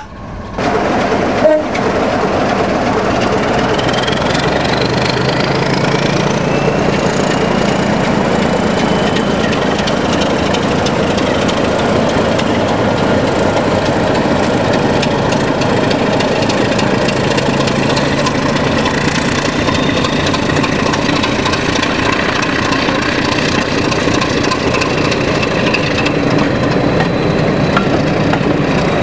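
Diesel locomotive running under power with a train, a steady heavy engine note with a thin whine rising in pitch over several seconds near the start.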